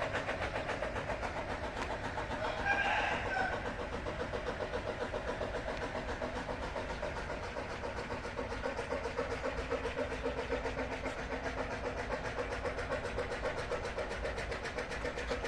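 An engine running steadily with an even, rhythmic pulse, with a brief louder sound about three seconds in.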